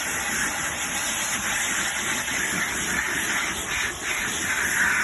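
Steady rushing hiss of car wash equipment running, dipping briefly about four seconds in.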